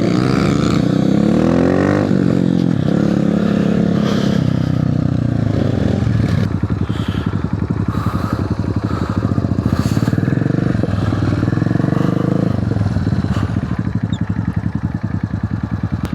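Mini motocross bike engine running under way, rising and falling in pitch as it revs through the first few seconds, then settling to lower revs with a steady chugging beat.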